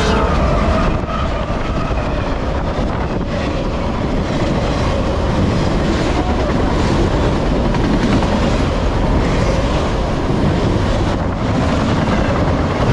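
A Norfolk Southern freight train passing close by: the lead diesel locomotive goes by at the start, then autorack cars roll past with a steady heavy rumble and the clickety-clack of wheels over the rail joints.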